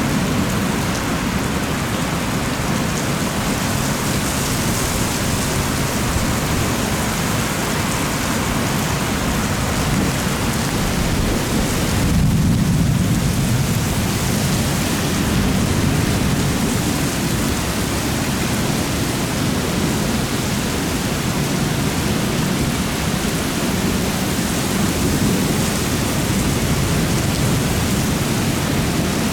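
Heavy thunderstorm rain pouring steadily, with a deep low rumble underneath that swells about twelve seconds in.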